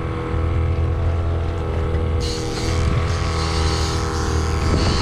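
A fishing boat's motor running steadily at a constant pitch, with a brief rush of hiss about two seconds in.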